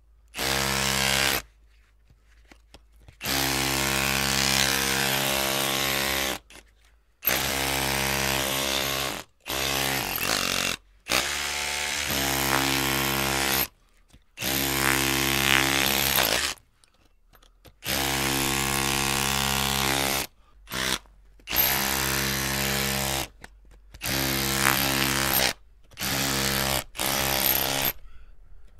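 Electric drill run in short bursts, the trigger squeezed and released about a dozen times. Each burst holds a steady motor whine for up to about three seconds and starts and stops abruptly.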